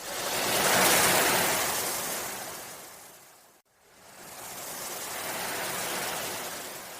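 Ocean waves washing in, heard as two swells of surf: the first rises sharply, fades and cuts off abruptly about three and a half seconds in, then a second builds slowly and fades.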